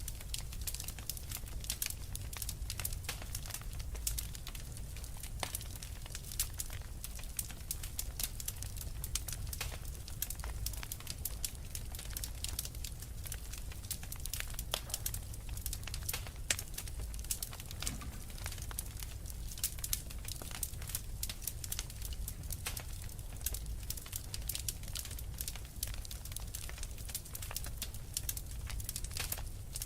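Fire crackling in a fireplace: a constant scatter of small, sharp pops and snaps over a steady low rumble.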